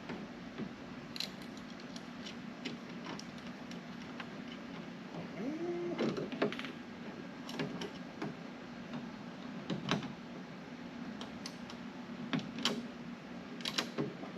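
Scattered light clicks and clanks of metal parts and tools being handled during hand work, over a steady low hum. A brief squeak comes about five to six seconds in.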